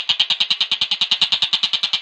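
A songbird giving a rapid, unbroken trill of short, high, evenly repeated notes, about thirteen a second.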